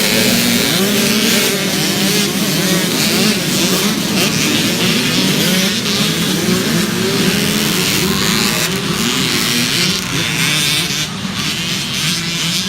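A pack of small youth dirt bikes running together, their engine pitches rising and falling over one another as they rev.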